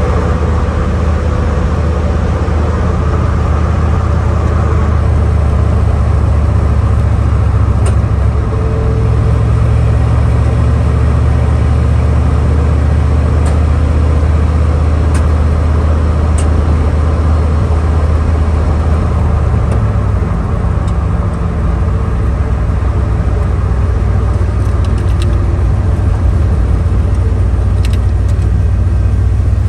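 Car driving at a steady speed: a continuous low engine and road drone, whose pitch shifts about 9 seconds in and again about 20 seconds in.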